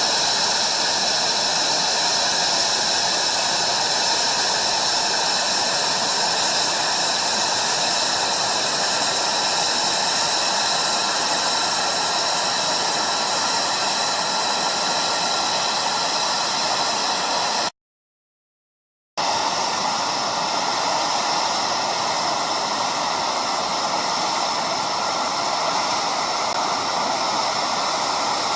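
Steady, loud rushing noise with faint high steady whines in it; it cuts to dead silence for about a second and a half about two-thirds of the way through, then comes back unchanged.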